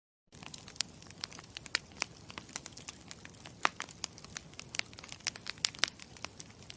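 Campfire crackling: irregular sharp pops and snaps over a steady low hiss, starting suddenly just after a moment of silence.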